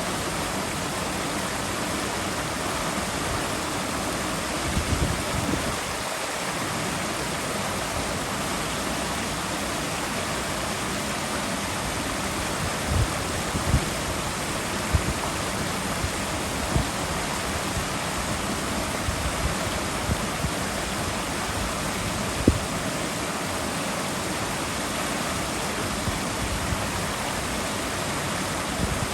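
Running water rushing steadily. A few brief low thumps are scattered through it, the sharpest about three quarters of the way through.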